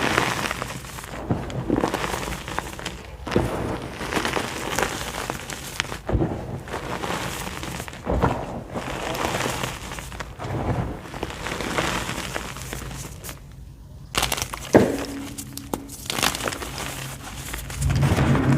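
White gym chalk being crushed, crumbling and crackling in repeated soft crunches, with a short pause about three-quarters of the way through.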